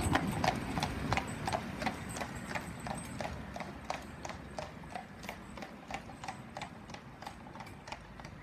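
A horse pulling a cart, its hooves clip-clopping at a steady walk on a hard surface, about three footfalls a second, fading as it moves away.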